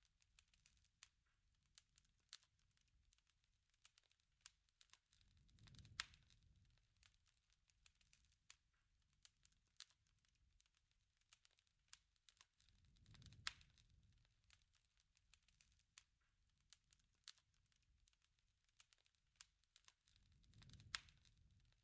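Campfire crackling softly, with irregular pops and snaps and a low rush of flame swelling up about every seven seconds.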